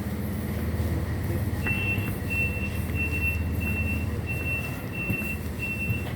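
A local train's engine rumbles steadily. About a second and a half in, an evenly spaced series of high electronic beeps starts, roughly one and a half a second, and keeps going: the train's door-closing warning.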